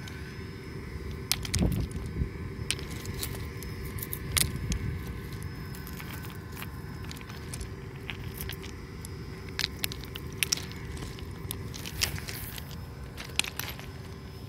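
Irregular sharp clicks and crunches of footsteps and stones shifting on railroad track ballast, with a faint steady hum underneath.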